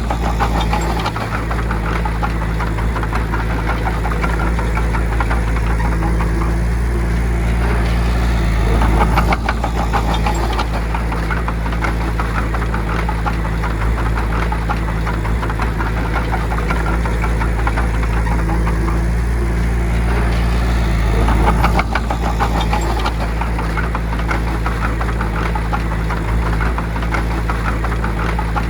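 Bulldozer's diesel engine running steadily under load, with a brief swell in loudness about nine seconds in and again about twenty-one seconds in.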